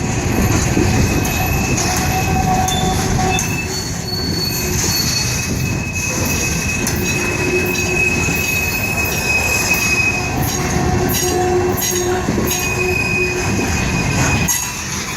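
Freight train cars rolling past with a steady rumble of wheels on rail and thin, high wheel squeals that come and go.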